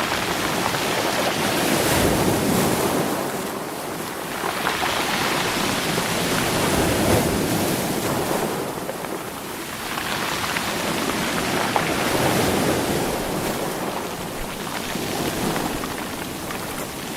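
Sea waves washing in over stones, the rocks rolling and clattering in the surge. The wash swells and fades about every five seconds.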